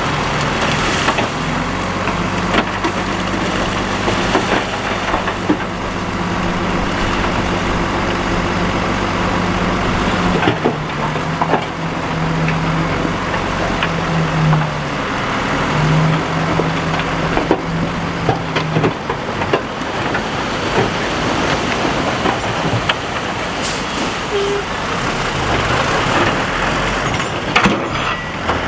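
Heavy diesel earthmoving machinery running, its engine note shifting about ten seconds in and again near the twenty-second mark, with scattered knocks and clatter.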